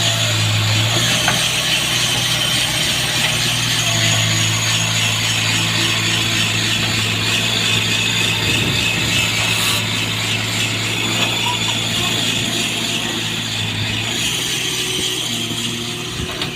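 Heavy diesel farm machinery running steadily, with a low engine hum and a continuous mechanical clatter.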